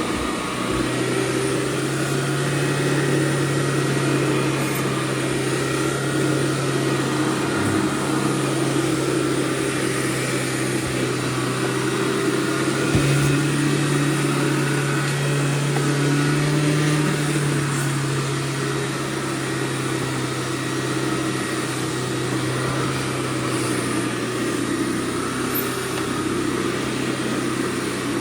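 Hoover Shoulder Vac Pro backpack vacuum cleaner running steadily, its motor giving a constant hum and whine that rises slightly in pitch for a few seconds midway. There is a single brief knock partway through.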